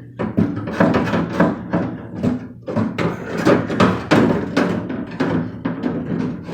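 Window regulator clanking and rattling against the inside of a truck door shell as it is worked loose from its tracks, a quick, irregular run of metallic knocks.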